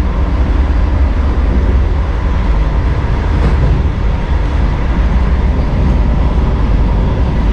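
Steady low rumble inside the coach of a Vande Bharat Express electric train running along the track.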